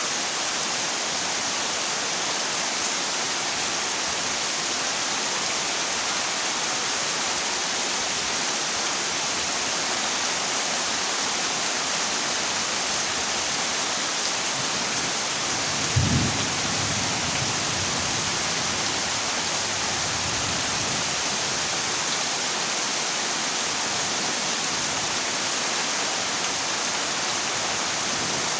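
Heavy rain drumming steadily on a corrugated zinc roof. A single thunderclap comes about halfway through, followed by a low rumble that fades over a few seconds.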